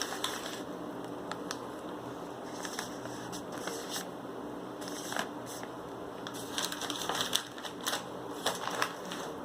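Plastic snack wrapper crinkling and crackling as it is handled, in scattered crisp crackles that come thicker in the second half.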